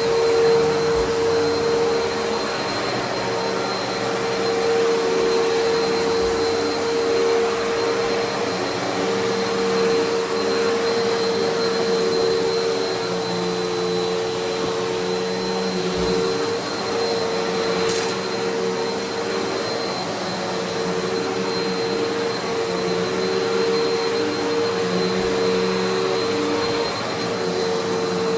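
Vacuum cleaner with a belt-driven brush roll running steadily over carpet, its motor hum wavering slightly in level as it is pushed back and forth. A single brief click about eighteen seconds in.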